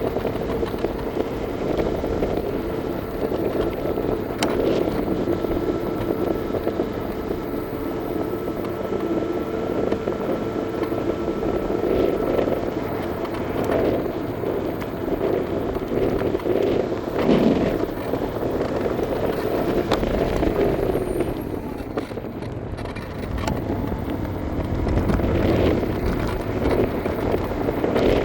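Riding noise from an electric scooter: a steady rush of wind and road rumble, with a thin steady whine over roughly the first twelve seconds.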